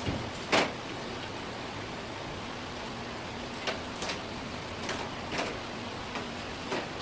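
A knife knocking and tapping on a cutting board while a fish is being cut, about six short sharp knocks, the loudest about half a second in, over a steady hiss.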